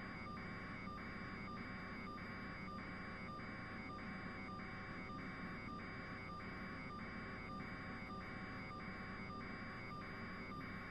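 An electronic alarm or signal beeping in an even, rapid rhythm, a little over two buzzy pulses a second, over a steady low hum.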